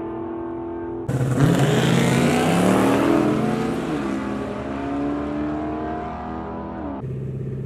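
Drag-race car engines: one idling, then about a second in a sudden loud launch with the engine revving up in rising pitch, easing off over the next few seconds. Near the end the sound switches abruptly to another engine idling.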